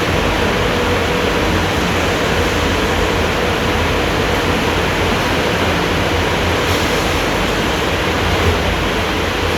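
Kleindienst California car wash running, making a steady, even rushing noise over a low rumble.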